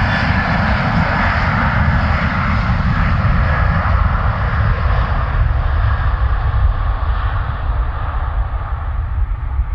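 Airbus A330-200 jet airliner's turbofan engines at takeoff power: a loud, steady rumble and hiss whose high end slowly fades as the plane moves away.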